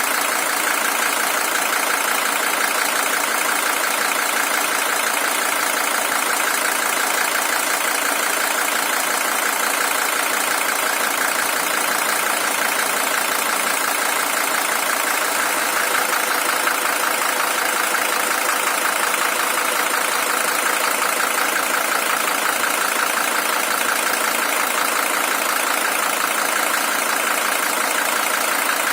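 Mercedes-Benz OM617 five-cylinder diesel engine in a W123 300TD, original with 620,000 km on it, idling steadily with no change in speed.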